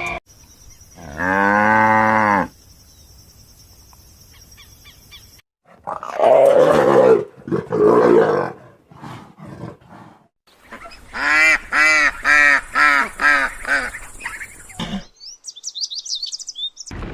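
A run of calls from several different animals, one after another with short gaps: a long low call near the start, two loud rough calls in the middle, a quick series of repeated pitched cries, then high chirps near the end.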